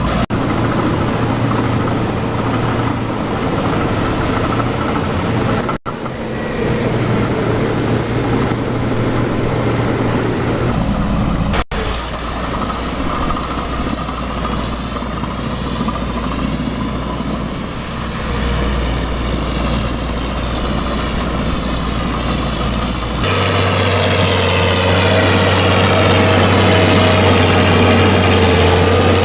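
Tractor engines running, heard across several short clips cut one after another, with abrupt changes in the sound at each cut.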